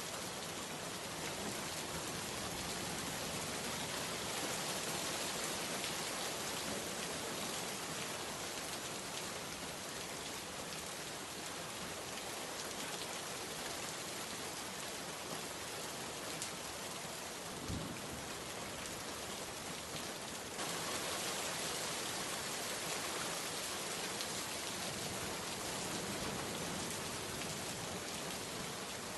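Rainstorm: a dense, steady downpour of rain on surfaces. A single dull thump sounds a little past the middle, and the rain grows slightly louder about two-thirds of the way through.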